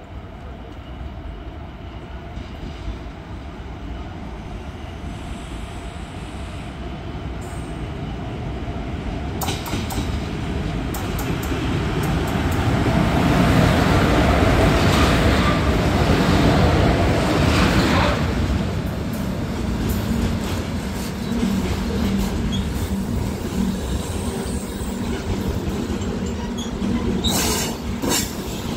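A freight train hauled by two WAG-7 electric locomotives approaching and running past close by, growing louder until the locomotives pass about halfway through. The covered goods wagons then roll past steadily, with a few sharp clacks of wheels over the rail joints near the end.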